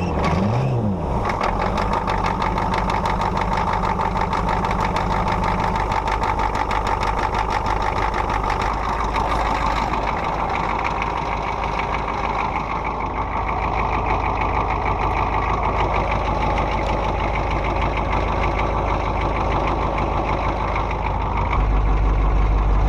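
Vehicle engine running steadily with a rapid, even clatter; its low rumble grows louder near the end.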